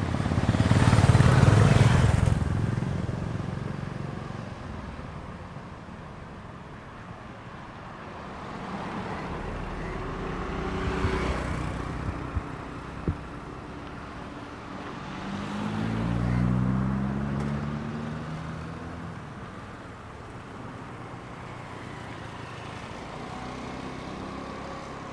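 Road traffic: motor vehicles pass close by three times, loudest about a second in, then around ten and sixteen seconds in. The last has an engine note that rises as it speeds up.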